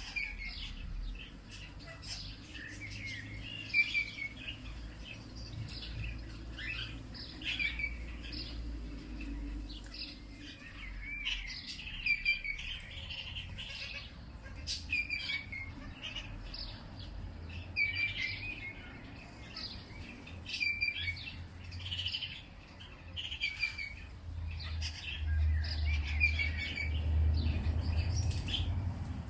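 Songbirds singing: short chirping phrases repeating every couple of seconds. A low rumble underneath grows louder near the end.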